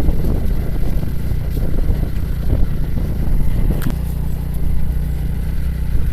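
Motorcycle engine running as the bike is ridden slowly, settling into a steadier, even note about four seconds in, with a sharp click just before.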